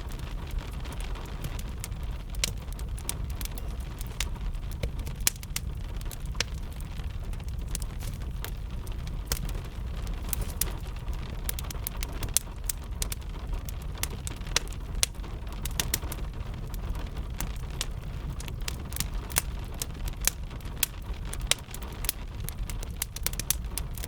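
Crackling fire with many sharp, irregular pops and snaps over a steady low rumble, layered with the steady patter of gentle rain.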